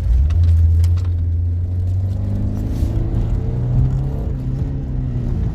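Car engine and road rumble heard from inside the cabin of a moving car. About two seconds in, the engine note climbs as the car accelerates, then eases off near the end.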